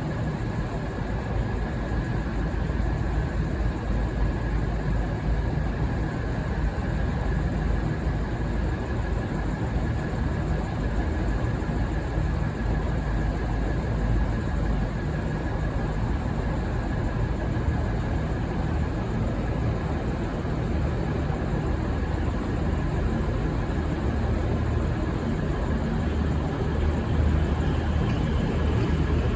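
V/Line VLocity diesel multiple-unit set VL75 running as it departs, a steady low rumble of engines and wheels with a faint steady high whine.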